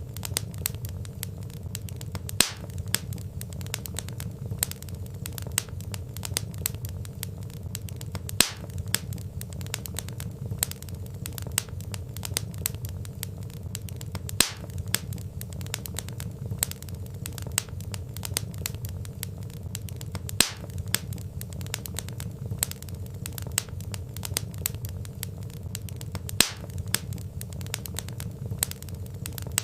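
Wood fire crackling steadily over a low rumble of burning logs. Small rapid snaps run throughout, with a louder pop about every six seconds.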